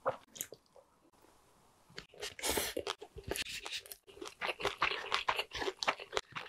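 Chewing and wet mouth sounds of a person eating chirashi sushi, a rapid run of small clicks and smacks. A brief scraping rustle comes about two and a half seconds in, from a spoon working in the paper bowl.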